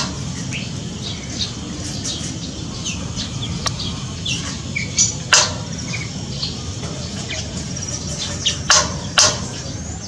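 Several birds chirping in an aviary: many short, scattered chirps and calls over a steady low background hum, with a few louder, sharper calls about five seconds in and twice near the end.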